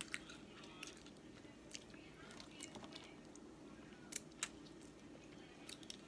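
Close-miked eating sounds: quiet chewing of seafood with scattered wet mouth clicks and smacks, and two sharper clicks about four seconds in.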